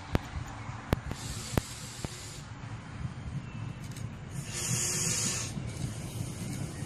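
DB Class 628 diesel railcar approaching on the track, a low rumble that builds as it nears. Three sharp clicks come in the first two seconds, and bursts of high hiss come about a second in and again about four and a half seconds in.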